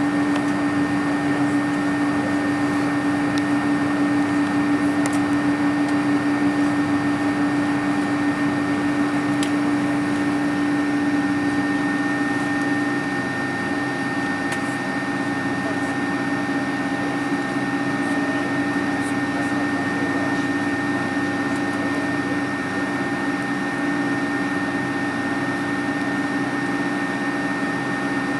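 Airbus A310 passenger cabin noise heard from a window seat: the jet engines and cabin air running as a steady drone with a constant low hum tone and fainter steady whistling tones above it, not yet climbing in pitch or loudness.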